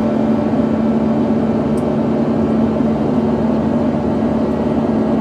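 Airbus A350-900's Rolls-Royce Trent XWB engines running at takeoff power, heard from the cabin as a loud, steady rush of noise with a steady low hum through it.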